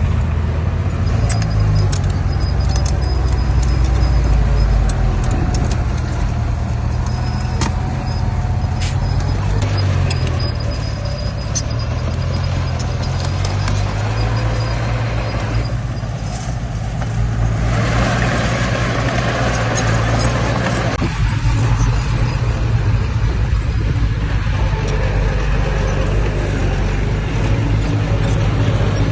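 Heavy diesel engine of earthmoving machinery running with a deep drone, its pitch rising and falling as it works, with light metallic clinks. A little past the middle a rushing noise swells up for a few seconds and fades.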